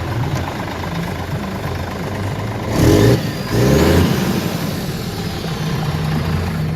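Scania R450 truck's 13-litre six-cylinder diesel idling, revved up twice in quick succession about three seconds in, then settling back to idle.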